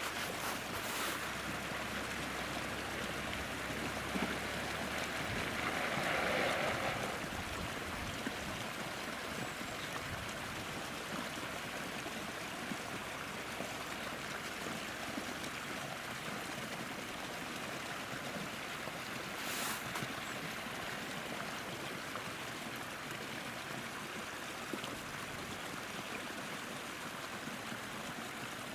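Stream of running water, a steady rushing and burbling.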